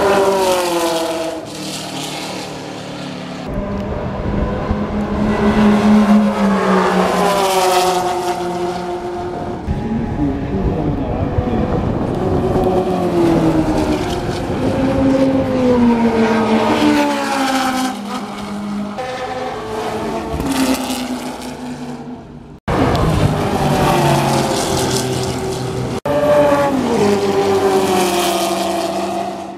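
Ford GT40 race cars' V8 engines running hard on a racetrack: several cars accelerating and passing, the engine note climbing through the revs and dropping in pitch as each goes by. Two sudden breaks about three-quarters of the way through.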